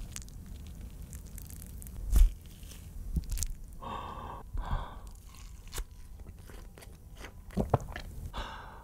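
Close-up eating sounds: a person biting into and chewing a small cheeseburger, with soft crunches and a few sharp clicks and thuds scattered through.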